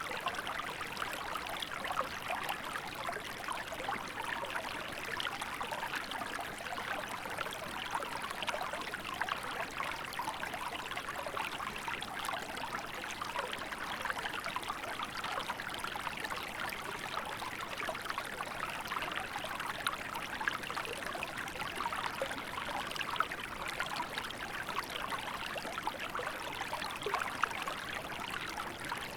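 Small river flowing steadily in winter, water running and trickling over rocks with a constant babbling rush.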